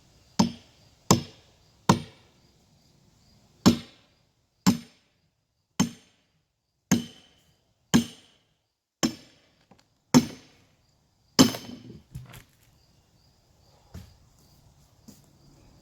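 A hammer driving a wedge into a log to split it: about eleven heavy blows, roughly one a second, with a short pause after the third, then a couple of lighter knocks near the end.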